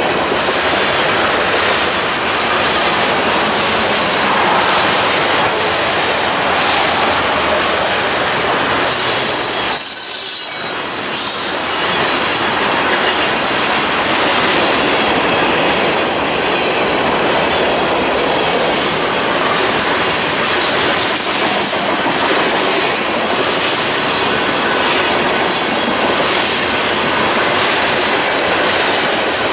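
Train cars rolling past on the rails, a steady loud rumble with wheel clatter. There is a brief high squeal from the wheels about nine seconds in.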